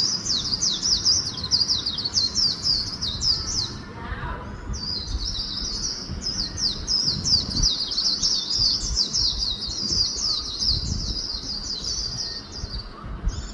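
White-eye singing a fast, high song of rapid downward-slurred notes, in two long runs broken by a short pause about four seconds in.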